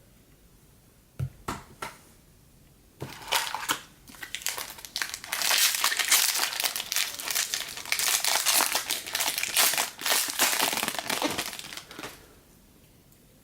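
A 2018 Bowman jumbo baseball card pack's wrapper being torn open and crinkled by hand: a few light handling clicks, then several seconds of dense crinkling that dies away near the end.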